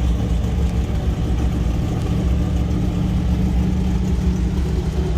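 Car engine running at a steady idle, loud and unchanging.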